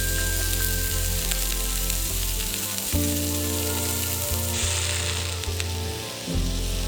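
Food sizzling and frying in a hot pan, with a steady hiss and small scattered pops, over background music with sustained low chords that change twice.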